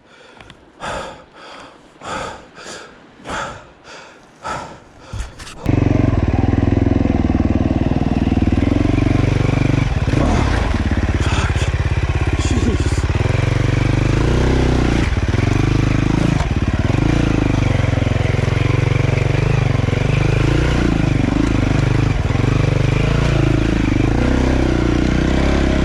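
Dirt bike engine running loud under way, its revs rising and falling over and over as the rider works the throttle on rough trail. It comes in abruptly after a few seconds of about seven evenly spaced thumps.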